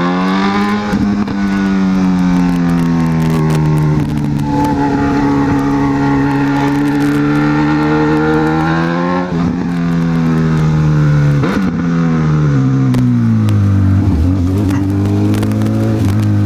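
Honda CB1000R's inline-four engine running under way. Its note climbs briefly at the start, then holds and slowly eases, with two short breaks in pitch around the middle. It drops to a lower steady note over the last few seconds as the bike slows.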